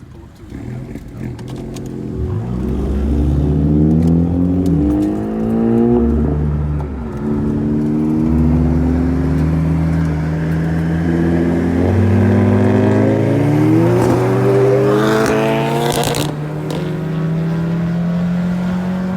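Car engine revving, its pitch climbing and dropping back several times, then holding steady near the end. A brief hiss cuts in about fifteen seconds in.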